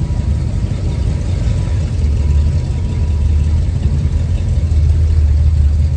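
A vehicle engine idling with a steady low rumble, likely one of the show pickups.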